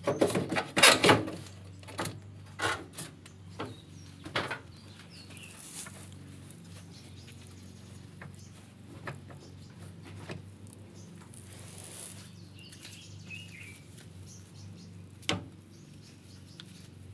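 A burst of sharp knocks and clatters in the first few seconds, then one more knock near the end, over a steady low hum.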